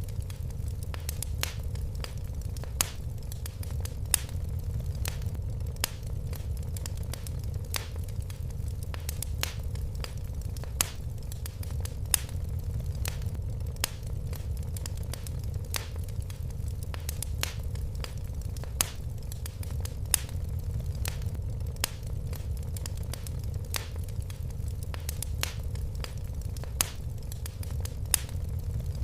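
Fire crackling in a fireplace: irregular sharp pops, a few a second, over a steady low rumble.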